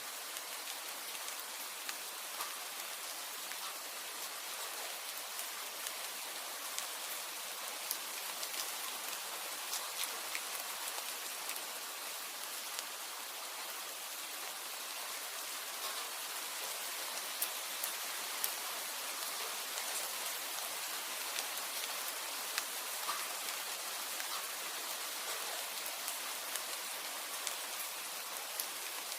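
Steady rain, an even hiss with scattered faint ticks of single drops.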